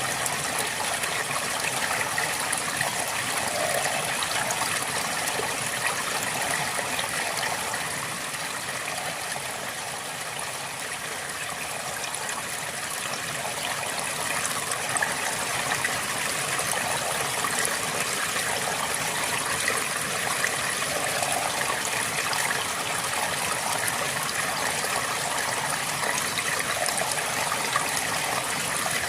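A river flowing steadily, with a continuous babbling and trickling of water over stones.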